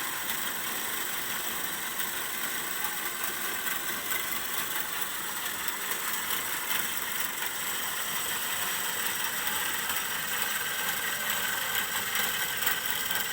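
A steady mechanical running noise with a bright hiss and several steady high whining tones, holding an even level throughout.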